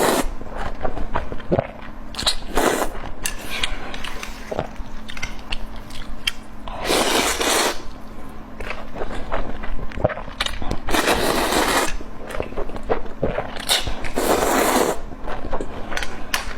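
Close-miked eating: biting and chewing with many sharp wet clicks, and three louder crunching bursts of about a second each, at about seven, eleven and fourteen seconds in.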